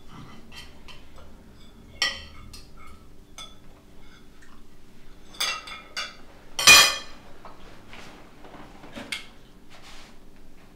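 Small clinks and knocks of mugs and dishes being handled on a floor, scattered and irregular, the loudest about two-thirds of the way through, over a low steady hum.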